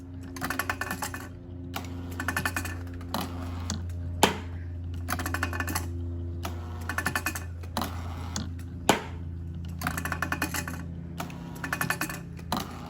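Homemade low-RPM hydraulic engine built from spare parts, running: a steady low hum under bursts of rapid clicking that repeat about every two seconds, with an occasional single sharp knock.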